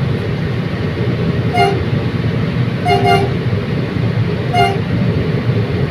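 Steady rumble of a moving commuter train, with short pitched toots repeating about every one and a half seconds.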